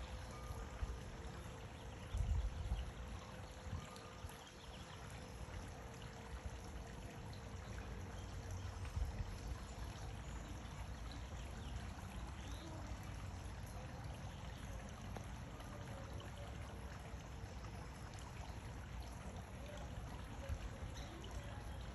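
Water trickling steadily, as from a bird bath, with a few low thumps about two seconds in and again around nine seconds.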